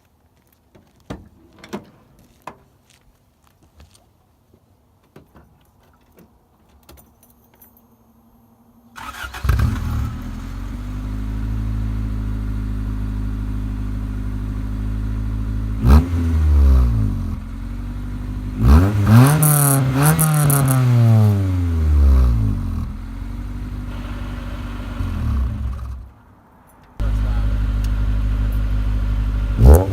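EF Honda Civic with a custom-welded exhaust, silencer fitted in the tip. After a few quiet clicks, the engine starts about nine seconds in and idles steadily. It is blipped a few times, with one longer rev that rises and falls. Near the end the sound cuts out briefly, then it idles again with a final blip.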